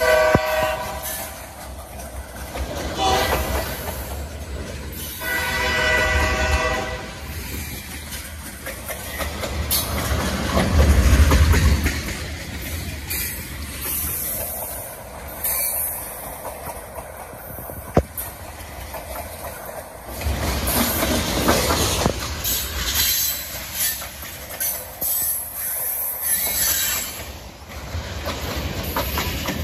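BNSF freight train of tank cars rolling past at close range: a steady rumble and clatter of steel wheels on the rails, swelling in places. A pitched horn-like wail sounds briefly near the start and again about five seconds in.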